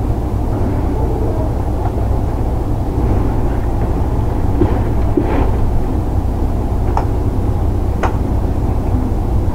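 Running noise inside a Kintetsu 1031 series electric train: a steady low rumble of wheels on rail, with two sharp clicks about seven and eight seconds in.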